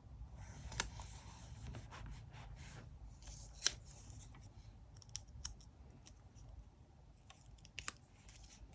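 Scissors cutting paper: a soft rustling cut with sharp snips, the loudest about a second in and just under four seconds in, then a few lighter snips and clicks of paper being handled.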